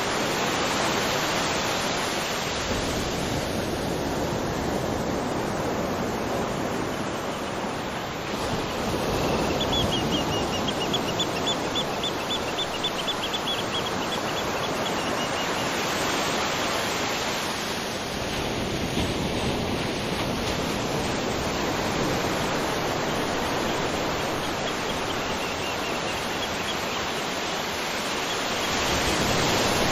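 Ocean surf washing onto a beach, the noise swelling and easing every several seconds. A rapid high chirping trill sounds for a few seconds about a third of the way in.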